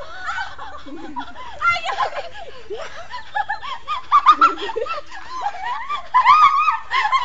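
High-pitched laughter and giggling, mixed with unclear talk.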